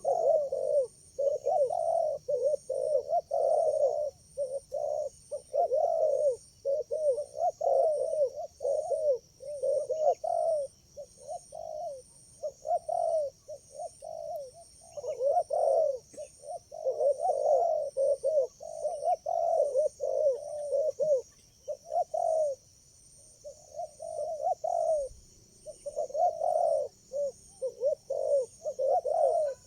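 Spotted doves (tekukur) cooing over and over in quick, overlapping phrases, with only brief pauses. A steady, evenly pulsing high-pitched drone runs underneath.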